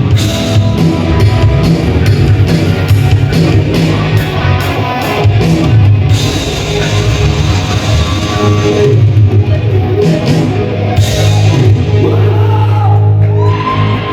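Live band playing a loud rock song, guitar to the fore over bass and drums, with a note sliding up and down near the end.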